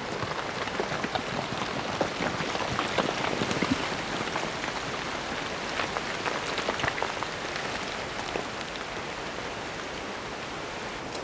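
Running water: a steady rush with many small splashes and drips.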